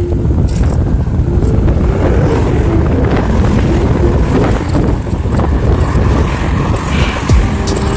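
Wind buffeting the microphone during a bicycle ride, a steady low rumble, with faint background music.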